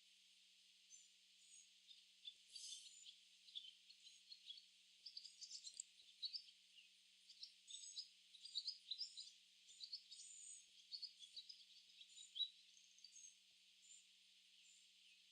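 A flock of barn swallows chirping and twittering: many quick, high, overlapping chirps that build up after the first second, are busiest through the middle and thin out near the end.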